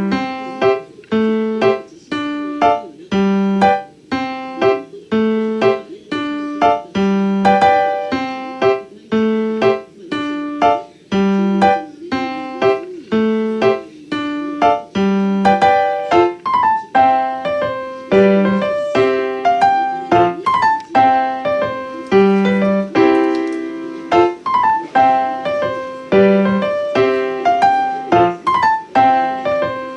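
Background piano music: a keyboard plays a steady repeating pattern of struck notes over a low note that comes back about once a second, with short rising runs of notes in the middle.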